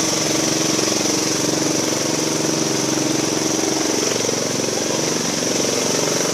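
Tractor engine running steadily, with an even, rapid firing beat.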